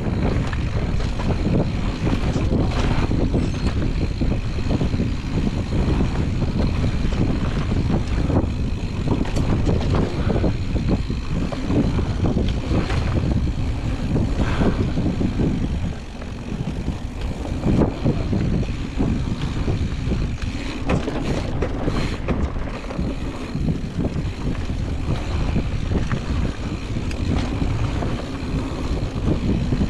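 Mountain bike rolling fast down a dirt singletrack: steady tyre rumble and wind on the camera microphone, with scattered knocks and rattles from the bike as it goes over rough ground.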